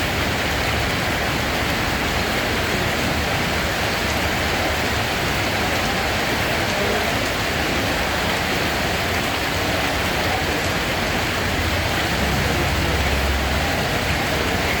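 Steady, dense rainfall: an even hiss of heavy rain with no separate drops standing out, and a low rumble underneath that swells slightly about twelve seconds in.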